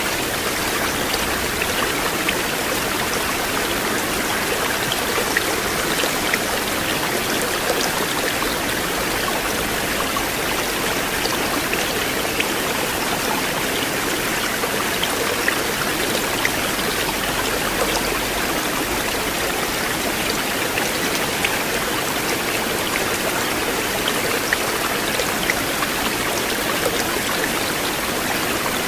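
River water flowing steadily, a continuous rush with small splashes and droplet ticks scattered through it.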